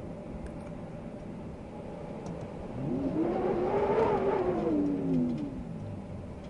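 Steady wind noise. A little under three seconds in, a tone with several overtones rises in pitch and grows louder, then falls away again over about three seconds.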